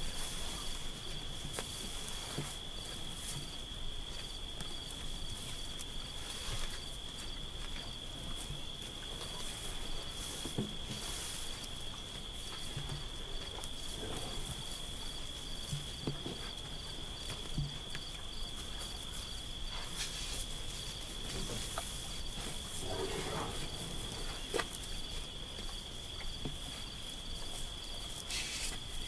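Insects, crickets or similar, trilling in a steady unbroken chorus on one high pitch, with a few faint rustles and knocks in the background.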